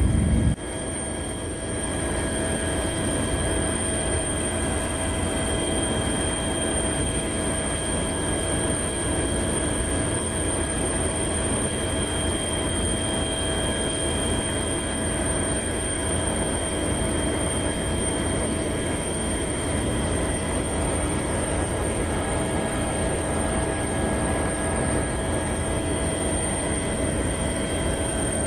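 Helicopter in flight: a steady, unchanging noise of engine and rotor with several high constant whining tones over it.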